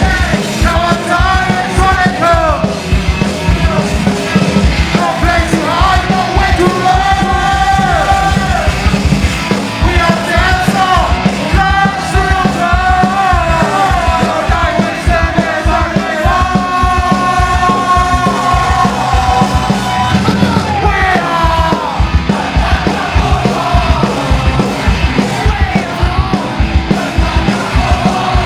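Live punk rock band playing a fast song, with a rapid, steady drumbeat and shouted vocals over the instruments.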